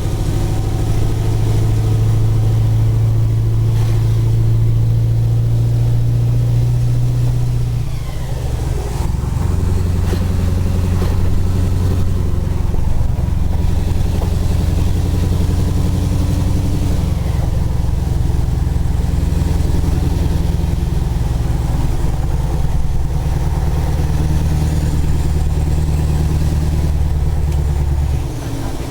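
Scania 143 450's 14-litre V8 diesel engine running steadily. Its note steps down in pitch about eight seconds in and changes a few more times after that.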